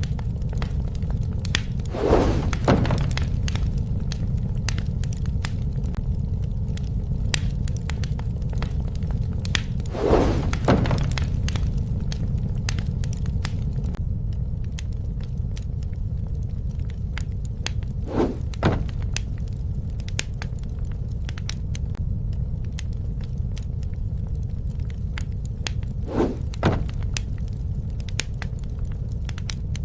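A bonfire burning, with a steady low roar of flame under a constant scatter of small crackles. A louder double crackle comes about every eight seconds.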